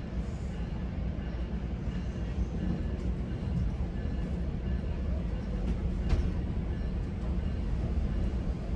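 Steady low rumble of a GO Transit commuter train heard from inside a passenger coach, with a sharp click about six seconds in.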